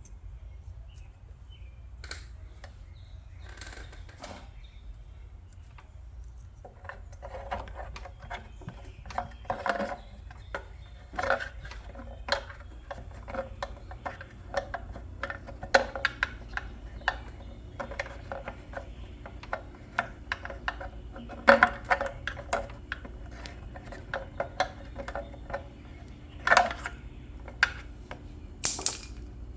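Hand work on a small-engine leaf blower: many scattered clicks, taps and knocks of parts and tools being handled, coming thicker from about a quarter of the way in, over a steady low hum.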